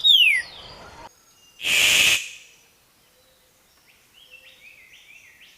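Bird calls: a falling chirp at the start, a loud, harsh, hissing screech about two seconds in, then faint short whistled notes stepping up and down near the end.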